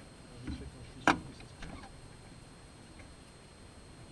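Quiet cockpit with no engine running. A soft low thump comes about half a second in, then a single sharp click about a second in, followed by faint small knocks of handling.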